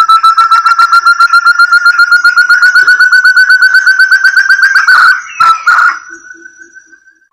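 Lure call of the terung forest quail (puyuh hutan): a long rapid trill of clear whistled notes, about a dozen a second, slowly rising in pitch. After about five seconds it breaks into a couple of rougher notes and fades out.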